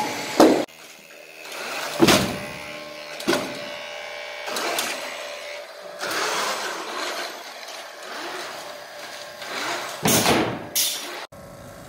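Small electric motors running on a robot prototype, broken by several loud knocks or thumps; the loudest pair comes near the end.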